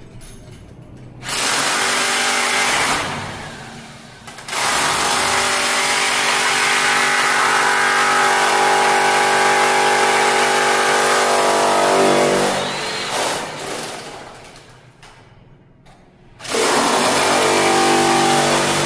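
Power tool running in three spells, a short one, a long one of about eight seconds, and another near the end, as it works at taking anti-slip strips off stair treads.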